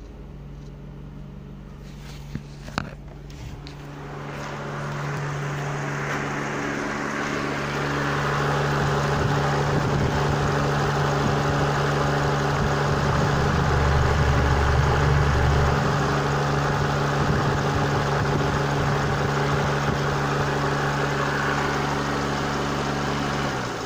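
Mazda B3 1.3-litre four-cylinder petrol engine idling steadily at operating temperature, getting louder over the first several seconds as the engine is heard closer. Two brief sharp knocks come about two and a half seconds in.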